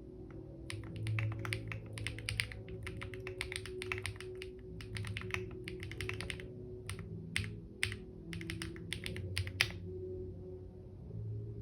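Typing on a computer keyboard: quick runs of keystrokes broken by short pauses, stopping shortly before the end. Soft ambient music with sustained low tones plays underneath.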